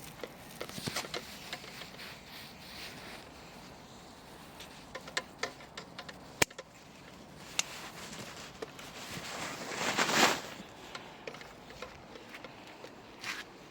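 Aubergine plant leaves and stems rustling as they are handled during picking, with scattered small clicks and snaps. A single sharp click comes about six and a half seconds in, and a louder rustle swells around ten seconds.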